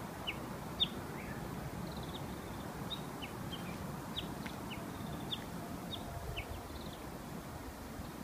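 Small songbirds chirping: short, high, downward chips, a few every second, at irregular intervals over a steady low outdoor hum.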